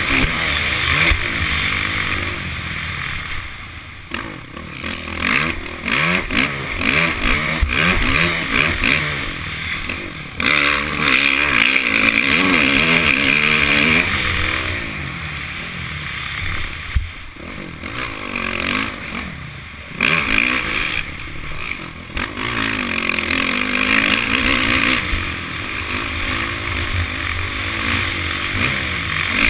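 Honda CRF450 single-cylinder four-stroke motocross engine under hard riding, its pitch climbing and falling again and again as the throttle is opened and chopped, with a rush of wind and track noise over it.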